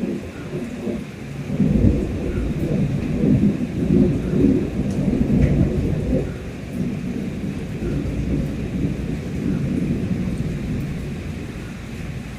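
Long rolling thunder rumbling over rain, swelling a couple of times and slowly easing off toward the end.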